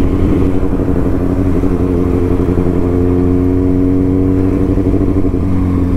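Kawasaki Ninja ZX-6R inline-four engine running while the bike is ridden, revs edging up a little and then holding steady before easing off near the end.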